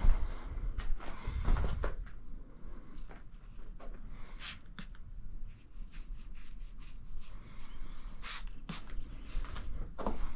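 Footsteps with scattered short clicks and knocks, and a low rumble near the start.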